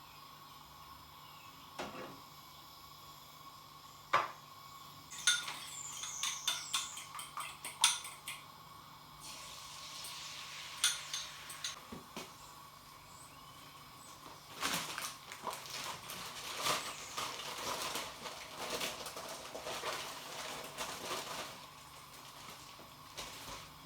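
Metal cutlery clinking and scraping against dishes and pans in irregular bursts of clatter, over a faint steady hum.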